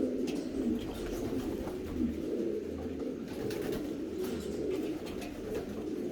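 A flock of racing pigeons cooing together, many overlapping low coos forming a continuous sound, with occasional short clicks.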